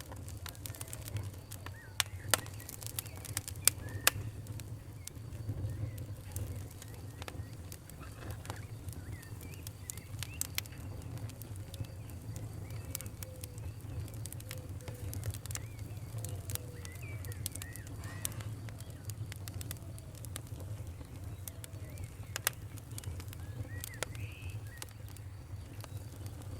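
Campfire crackling, with irregular sharp pops and snaps over a steady low rumble. Birds chirp and sing intermittently in the background.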